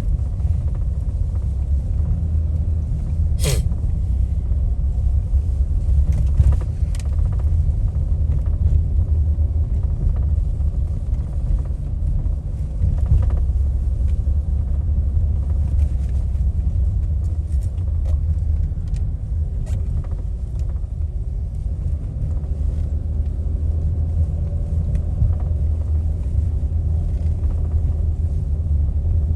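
Steady low rumble of a car driving, with a few light clicks; a sharp click comes about three and a half seconds in.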